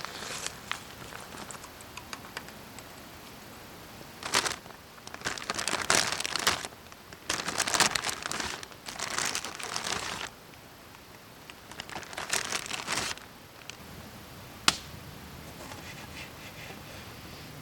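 Crinkling and rustling in several bursts of a second or more, as of material such as a bag or wrapping being handled. One sharp click near the end.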